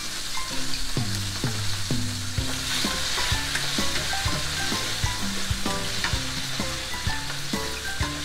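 Chicken pieces sizzling in hot oil in a nonstick frying pan, turned and stirred with a plastic spatula. Light background music with short plucked notes plays throughout.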